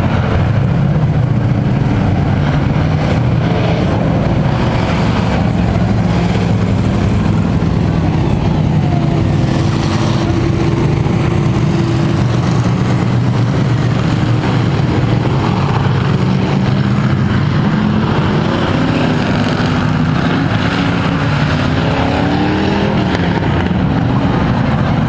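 Pack of thunder race trucks running laps at caution pace on a dirt oval, their engines going steadily, with pitch swings as trucks pass near the end.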